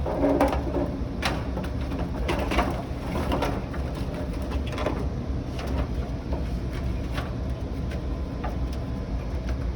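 Plastic clicks, knocks and rattles as a replacement water panel and its frame are worked into a furnace humidifier's housing, thickest in the first few seconds, over a steady low hum.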